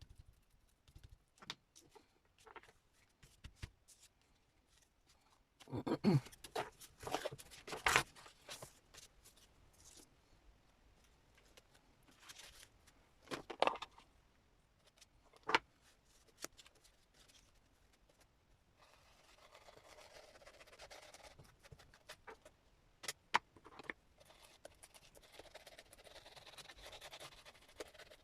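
Paper and craft scraps handled on a desk: irregular rustling, scrapes and light taps, with two longer spells of soft rubbing of paper in the second half.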